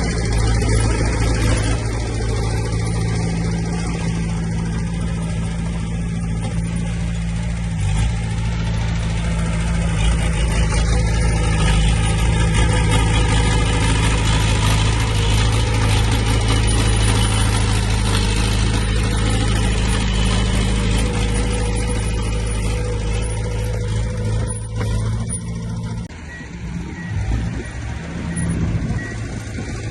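Heavy earthmoving machine's diesel engine running steadily. Its even drone changes and drops in level about four seconds before the end.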